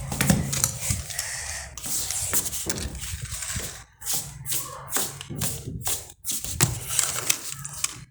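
Irregular taps, clicks and rustling of small objects being handled close to the microphone, with no steady rhythm.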